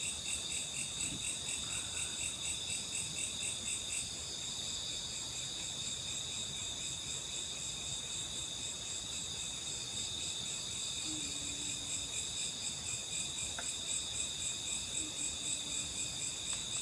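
Night insects chirring in the forest, a steady high-pitched chorus of several layered tones that pulses rhythmically for the first few seconds and then runs more evenly.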